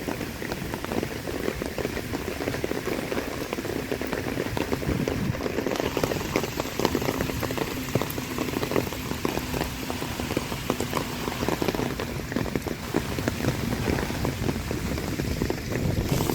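Heavy typhoon rain falling and striking surfaces, a dense, steady patter of countless drops.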